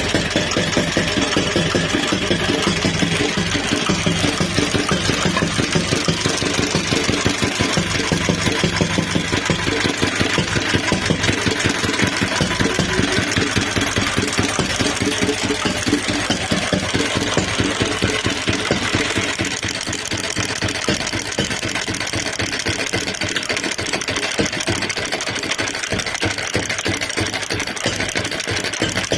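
Antique Bernard D1 engine running steadily, with a fast, even firing rhythm; it becomes slightly quieter about two-thirds of the way through.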